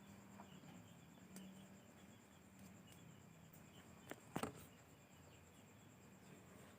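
Near silence: faint room tone with a low hum and a thin, steady high whine, broken by a quick pair of sharp clicks or knocks a little past the middle.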